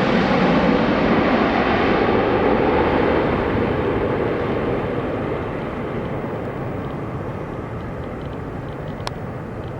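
Jet noise from a landing Boeing 777-200ER airliner, a steady rumble that slowly fades and grows duller as the aircraft moves away. A single sharp click comes near the end.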